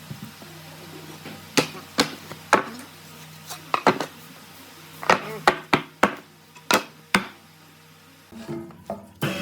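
Sharp knocks on wood, about a dozen irregular strikes like hammer or mallet blows, over a low steady hum.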